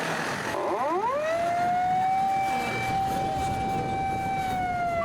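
Fire engine siren winding up from a low pitch about a second in, holding one steady wailing tone, and starting to wind down near the end.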